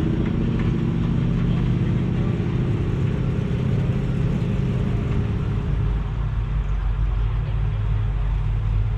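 Car engine running steadily at low revs: a deep, even rumble. The higher part of its tone fades about six seconds in.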